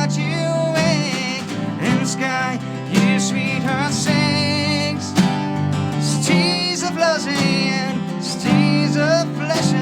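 Live band music, an instrumental stretch of a song, with a melody line wavering in pitch over steady low notes.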